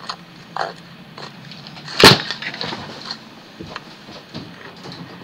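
A single loud, sharp knock about two seconds in, among a few fainter clicks and rustles.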